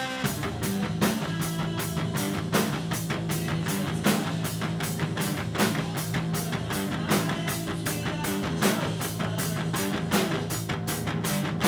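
Heavy rock music: guitar over a drum kit keeping a steady driving beat, with cymbal strokes about four times a second and stronger accents every second and a half or so.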